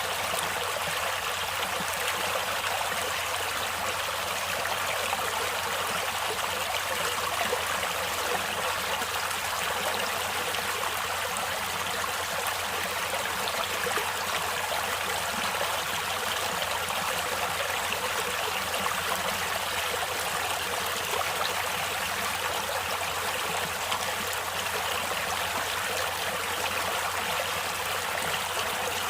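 Water of a natural stream flowing steadily: a constant, even rushing with little low rumble.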